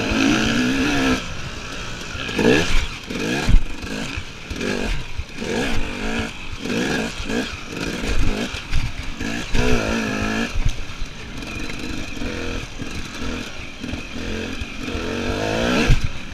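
KTM EXC enduro motorcycle ridden off-road, its engine revving up and falling back again and again as the throttle is opened and shut. There are a few sharp knocks along the way.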